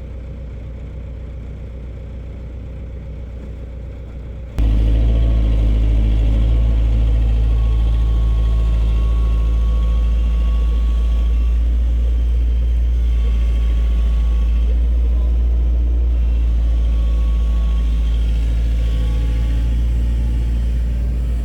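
Heavy diesel engine of construction machinery running steadily with a low, even rumble. About four and a half seconds in it jumps suddenly louder and then stays steady.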